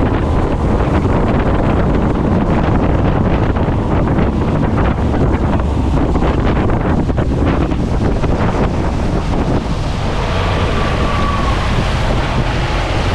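Heavy wind buffeting the microphone on a small boat under way, with water splashing and rushing past.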